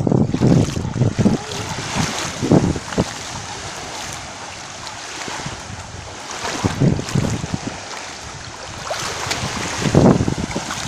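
Wind buffeting the microphone in repeated gusts, over the steady wash of small sea waves breaking on a sandy beach.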